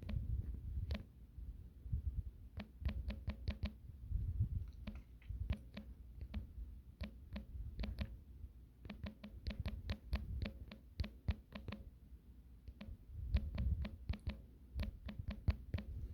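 Keyboard typing: short sharp key clicks in quick runs of several a second, broken by pauses, over low thuds and rumbles of handling near the microphone.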